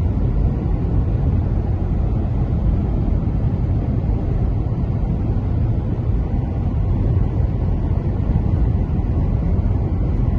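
Steady low rumble of a car driving at highway speed, as heard inside the cabin: road and engine noise with no sudden changes.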